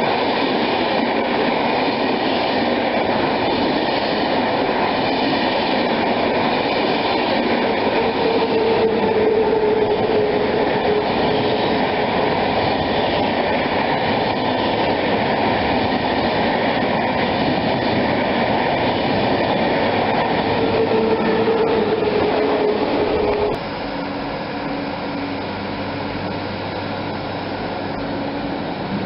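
Train running on the track, a loud steady rolling noise with a whine that swells twice. Near the end the sound drops suddenly to a quieter rumble with a low hum.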